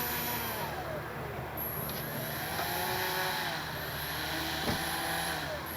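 Brushless electric motor and propeller of an FMS Cessna 182 RC foam plane (3541 KV840 motor) taxiing at low throttle, its whine rising and falling with short throttle blips. A brief sharp tap near the end.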